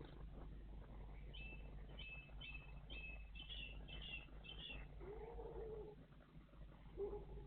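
A songbird singing faintly: a short falling phrase repeated about eight times in quick, even succession, followed by two lower, softer calls.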